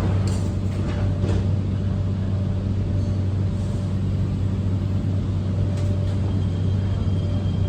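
Underground metro train running, a steady low rumble and hum with a few faint clicks.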